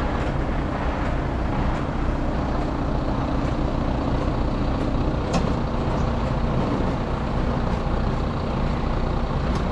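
Heavy recovery truck's engine running steadily while driving the boom winch, lifting the front of a 26-tonne lorry out of a ditch up towards the boom's maximum lift. A single sharp click about five and a half seconds in.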